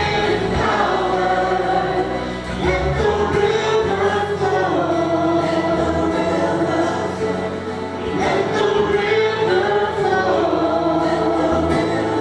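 Worship music with a choir singing, notes held long over a steady accompaniment.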